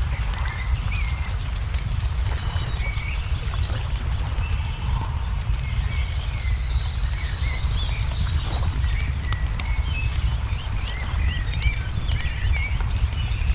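Ambience of a crackling wood fire, its small sharp pops scattered throughout, with songbirds chirping and a short high trill about a second in, over a steady low rumble.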